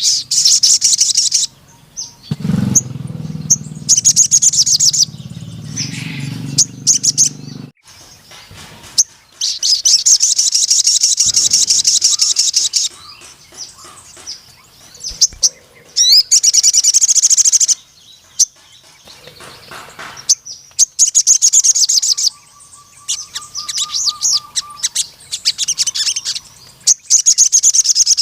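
Sogon, a sunbird, singing in repeated very fast, high trilled phrases of about one to three seconds each, with short pauses between. A steady low hum sounds under the song for several seconds in the first third.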